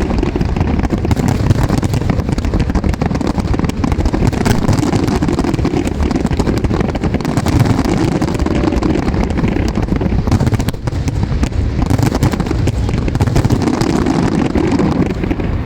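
Fireworks display going off continuously: a dense low rumble of bursts with many quick crackling pops, thickest about halfway through.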